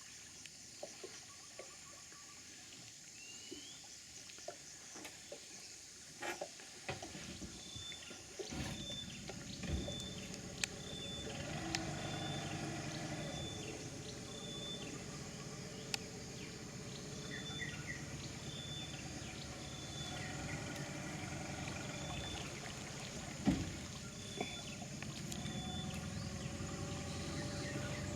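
A boat's outboard motor comes in about a third of the way through and keeps running as a steady low drone. Over it a short, high call repeats about once a second.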